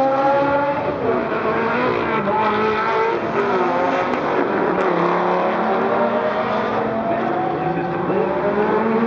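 Several supercar engines running hard on a track at once, their overlapping notes rising and falling in pitch as the cars accelerate and pass.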